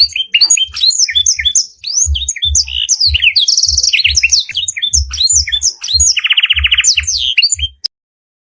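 Canary singing a fast, varied song of quick whistles, sweeping notes and buzzy rolling trills, the canary song with black-throated canary (blackthroat) phrases that is used as a training recording for cage birds. Low thumps sound underneath, and the song cuts off abruptly near the end.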